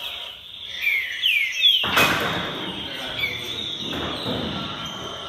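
Trinca-ferro (green-winged saltator) singing loud, falling whistled notes. About two seconds in, a loud rustling noise starts and fades away over the next few seconds.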